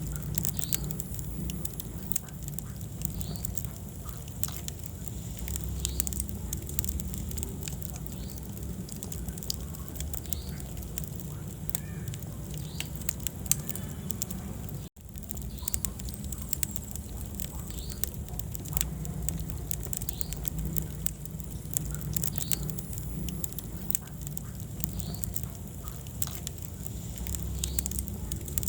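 Wood fire burning in a fireplace: dense, irregular crackles and pops over a steady low rumble of flames, with occasional faint high squeaks. The sound cuts out briefly about halfway through.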